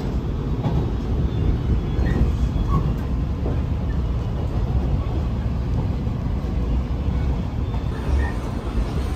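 Steady low rumble of the Rokumon electric train, a converted 115-series car, running along the line, heard from inside the carriage.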